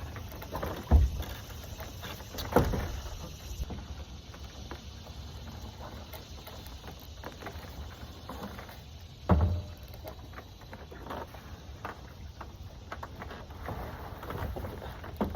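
Three dull, bass-heavy thumps, about a second, two and a half seconds and nine seconds in, over a low steady background noise.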